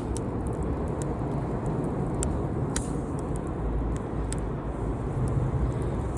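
Wood campfire burning: scattered sharp crackles and pops of the burning wood over a steady low rumble.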